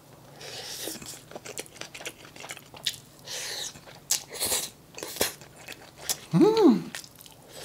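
A person chewing a mouthful of fried rice close to the microphone, with many small wet mouth clicks. Near the end comes one short hum that rises and falls in pitch.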